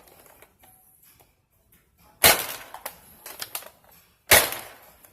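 Two shots from a Nerf Longshot spring-plunger foam blaster firing AccuStrike darts through a Chronobarrel chronograph, each a sharp snap. They come about two seconds apart, with small clicks of handling between them.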